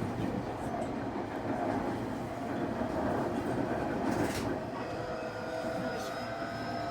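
Semboku 9300 series electric train running, with a few sharp clacks as the wheels cross rail joints. From about two-thirds of the way in, a faint whine from its Hitachi SiC VVVF inverter and traction motors rises slowly in pitch as the train gathers speed.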